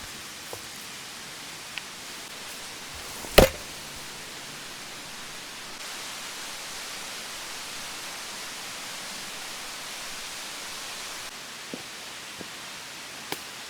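Steady rushing hiss, with one sharp knock about three and a half seconds in and a few faint clicks near the end.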